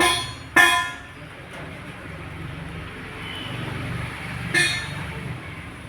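Three short metallic clinks, each ringing briefly, right at the start, about half a second later and near the end, over a low steady hum.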